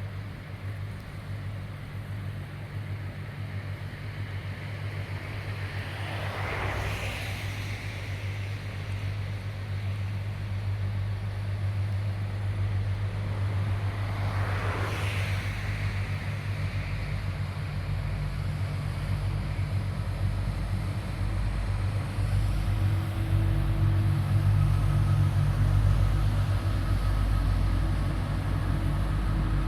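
Low, steady engine drone of a passing car ferry, growing louder as the ship draws near. Twice a brief whoosh passes over it, about eight seconds apart.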